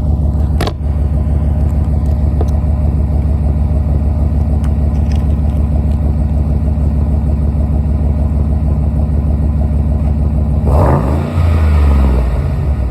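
2011 Chevy Silverado V8 through an MBRP dual exhaust, idling cold with a steady low rumble. A sharp click comes under a second in, and near the end there is one short rev that rises and drops back to idle.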